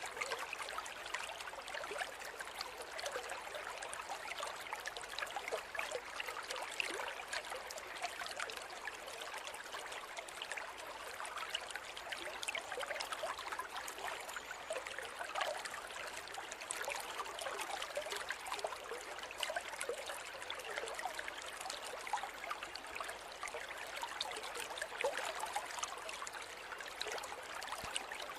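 A shallow river flowing over stones: a steady rush of water full of small splashes and gurgles, light and bright with little deep rumble.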